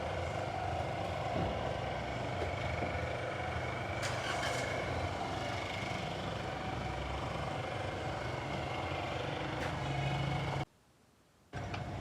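A car engine idling steadily, cutting out abruptly for under a second near the end.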